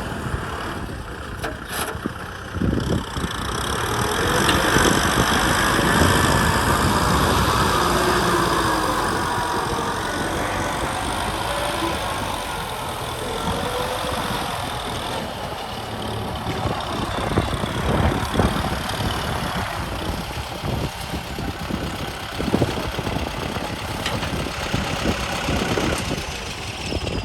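Kubota M6040 SU tractor's diesel engine running, louder for a few seconds near the start and then steady again.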